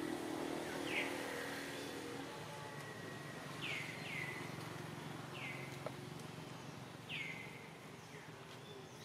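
A bird repeating a short, clear, downward-sliding call about six times at irregular gaps, over a low steady hum.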